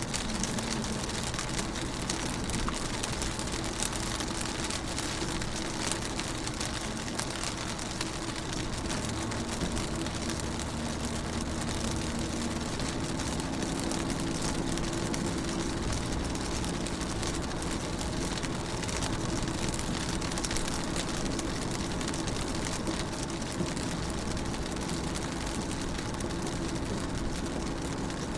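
Rain pattering on a car's windows, a dense steady spray of small drop ticks heard from inside the car, with a faint steady low hum underneath.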